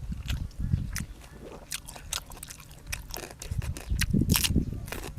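A person chewing and biting food, with a string of short, sharp crunches and clicks through the chewing.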